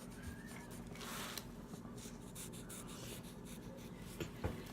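Colouring on paper: a pen or marker scratching across the sheet in short strokes, with a longer scrubbing stroke about a second in, as a cat drawing is coloured in.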